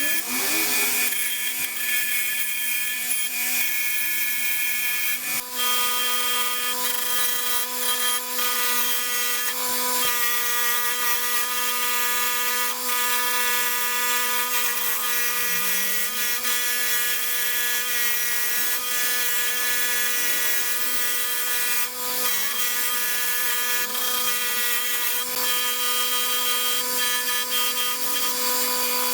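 A power tool running steadily with a constant whine, with a few faint sweeps in pitch over it.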